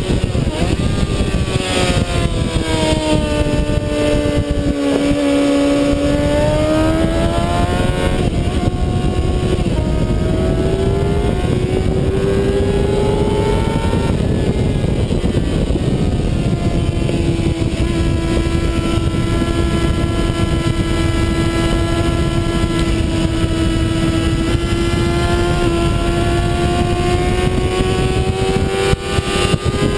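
Onboard sound of a 2007 Kawasaki ZX-6R's inline-four engine ridden hard on a race track, with heavy wind rush. The engine note falls over the first five seconds or so as the bike slows, climbs until a drop about halfway through, then holds and slowly rises near the end.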